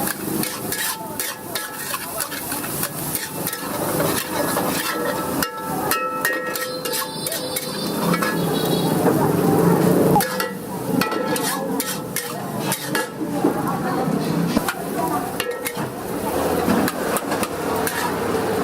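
Fried rice stir-frying in oil in a wok, sizzling steadily, with a metal spatula scraping and knocking against the pan over and over as the rice is tossed.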